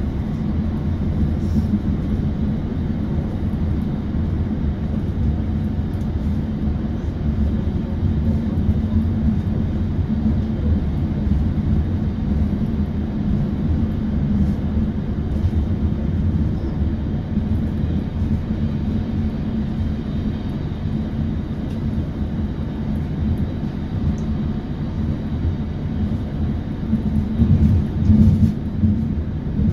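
ABB UBp electric multiple unit running along the line: a steady low rumble of wheels and running gear, swelling a little near the end.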